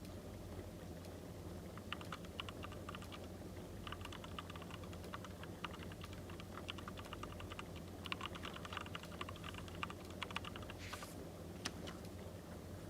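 Runs of rapid light clicks and taps in bursts of a second or so, followed by a short rustle about eleven seconds in, over a low steady hum.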